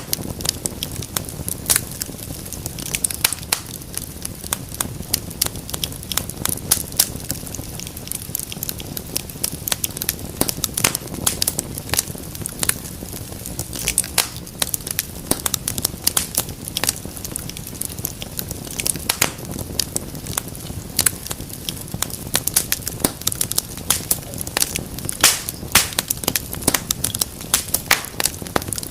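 Wood fire in a fireplace crackling steadily, with many sharp, irregular pops and snaps over a low rumble of flame.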